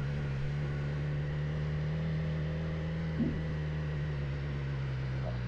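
Motorcycle engine running at a steady pitch, stepping down slightly near the end.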